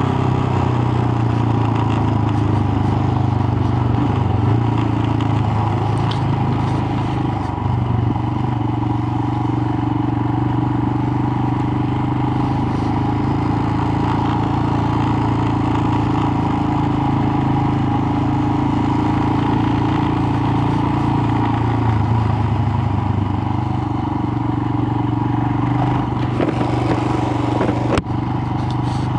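Royal Enfield Himalayan's single-cylinder engine running steadily on the road, recorded on the bike, with small shifts in engine pitch about a third of the way in and again near three quarters of the way through.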